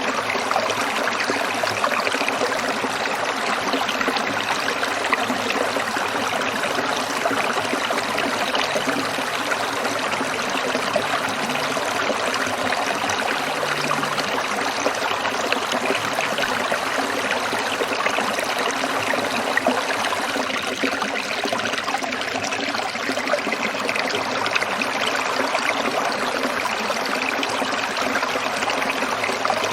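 Shallow stream trickling and splashing steadily over stones.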